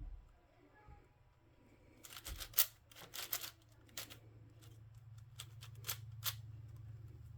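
Plastic puzzle cube being turned by hand: quick clicking and scraping layer turns, in a burst of moves from about two seconds in. A low steady hum runs underneath from about the same time.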